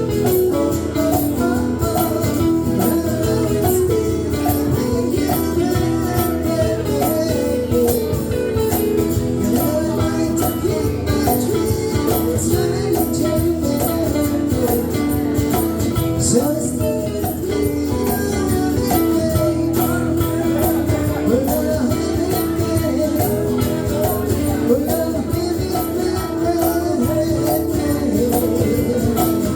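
A band playing a song: guitars over a steady, even beat of high ticks, with singing.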